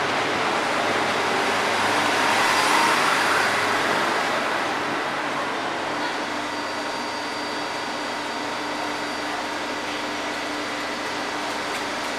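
Suburban passenger train's carriages rolling along a station platform, a steady rumble of wheels on rail that peaks about two to three seconds in. The rumble then eases to a quieter, steady hum.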